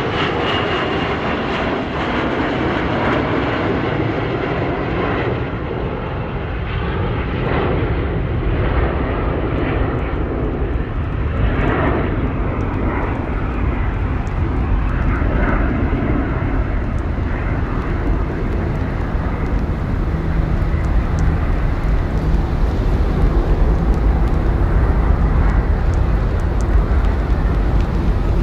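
Jet airliner's engines at takeoff power, a loud continuous rumble that turns deeper and duller over the half minute.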